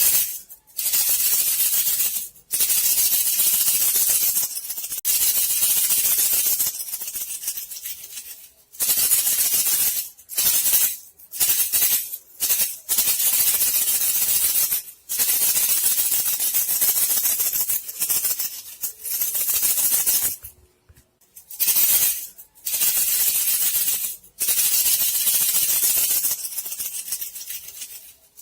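Rat-luring rattle call for attracting bandicoot rats: a dry, hissing shake in runs of one to three seconds, broken by short pauses and a few quick bursts.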